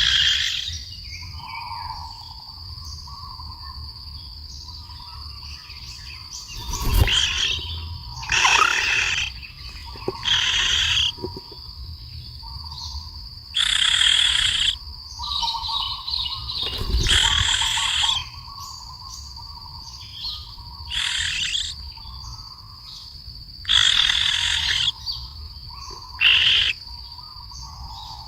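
Birds giving harsh, rasping calls about half a second to a second long, roughly ten of them at irregular intervals, over a steady high-pitched tone and a fainter lower one.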